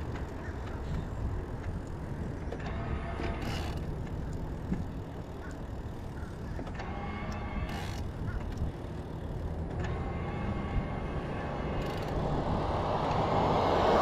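Road traffic passing by, heard from a moving bike, over a steady low wind rumble on the microphone. A passing vehicle's noise swells near the end.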